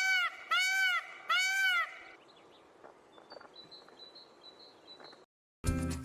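Peacock calling in a quick series of rising-and-falling calls, about two a second, that stop about two seconds in. Faint high chirps follow, and music starts near the end.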